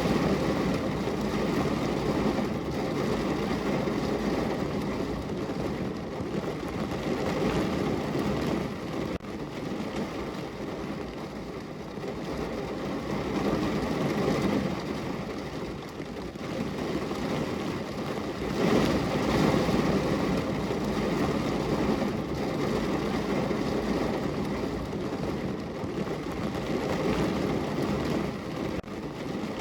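Heavy rain falling on a car's roof and body, heard from inside the cabin: a dense, steady patter that swells and eases in waves, loudest about two-thirds of the way through.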